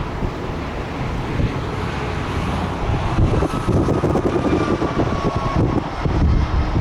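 Airbus A380's four Engine Alliance GP7200 turbofans rumbling as the airliner comes in to land, growing louder, with a faint falling whine in the middle. Strong wind buffets the microphone.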